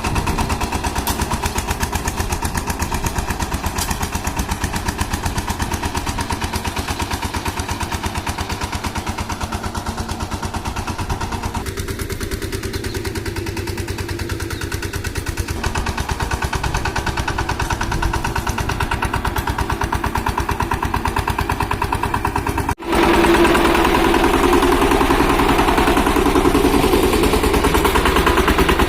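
Power tiller engine running steadily with a rapid, even chugging beat. It cuts out for an instant about 23 seconds in and comes back louder.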